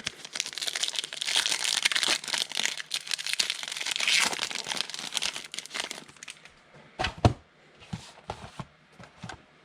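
Wrapper of a football trading card pack being crinkled and torn open, crackling for about six seconds. A couple of sharp knocks follow about seven seconds in.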